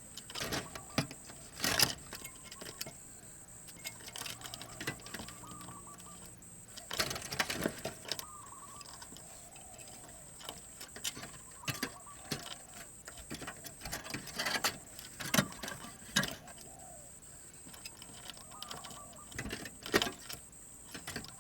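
Spotted dove cooing in short phrases every few seconds, with scattered sharp clicks and knocks.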